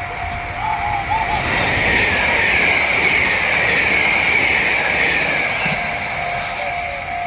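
A train passing over a Japanese level crossing: its noise swells about a second in, holds, and eases off over the last couple of seconds, with a whine that falls slowly in pitch. The crossing's warning alarm keeps ringing at one steady pitch underneath.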